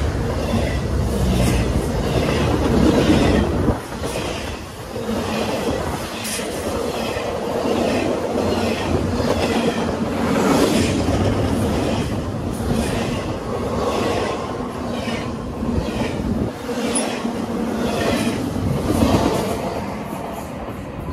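Double-stack intermodal freight cars of a CSX train rolling past close by: a continuous rumble of steel wheels on rail, with wheel clicks over the rail joints in a steady repeating rhythm.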